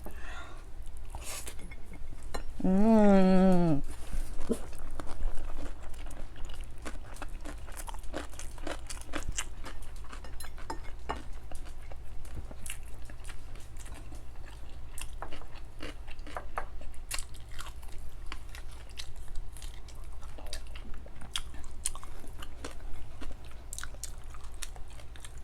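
A person eating close to the microphone: chewing with crunchy bites and wet mouth clicks scattered throughout, and a short hummed, wavering voice sound about three seconds in.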